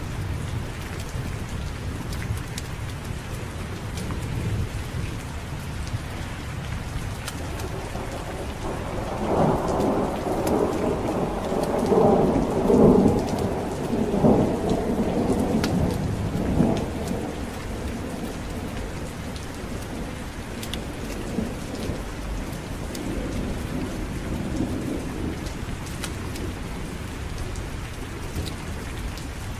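Steady heavy rain with a roll of thunder that builds about a third of the way in, peaks, and dies away a few seconds later.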